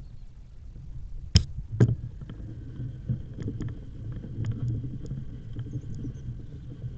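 Riding noise from an e-bike on the move: a steady low rumble, with two sharp knocks about a second and a half in. After that a faint steady whine runs under the rumble, with scattered light ticks.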